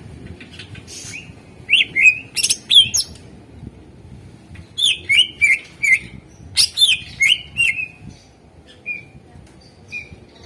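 Greater green leafbird (cucak ijo) in full song: two bursts of rapid, sharp whistled notes, each dropping in pitch, followed near the end by a few short single notes.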